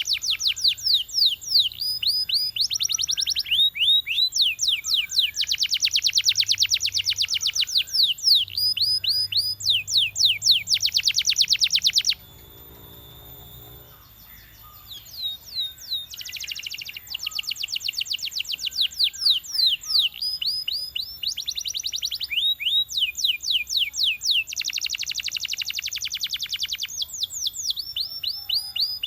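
Belgian canary singing: long rolling trills of rapidly repeated notes, alternating with slower runs of separate falling whistles. It breaks off for about two seconds near the middle, then resumes.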